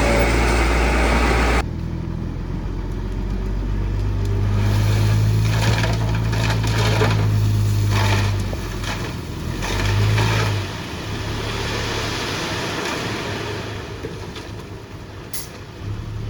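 Heavy construction machine's diesel engine running, working harder for a few seconds and then easing off, with a second short surge near the middle. The sound changes abruptly about a second and a half in.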